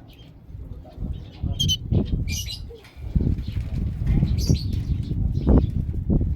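Small cage birds fluttering their wings against the cage, with a few short high chirps about a second and a half to two and a half seconds in.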